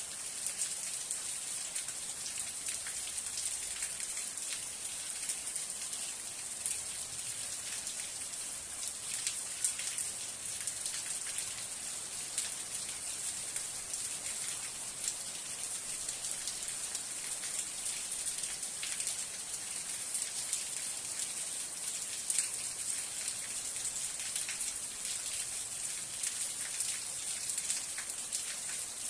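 Steady rain falling, a constant hiss dotted with many separate drop impacts.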